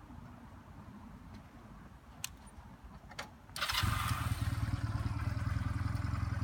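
Honda Rebel 250's parallel-twin engine started on the electric starter a little over halfway through: a brief crank, then it catches at once and settles into a steady idle. Two faint clicks come shortly before the start.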